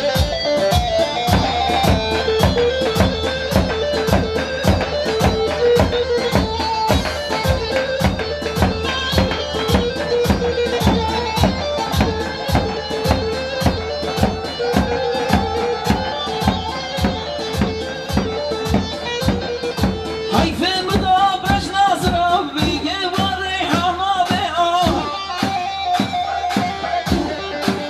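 Instrumental halay dance music: a plucked-string lead over keyboard and a steady drum beat of about two beats a second. About twenty seconds in the melody shifts to a higher, busier line.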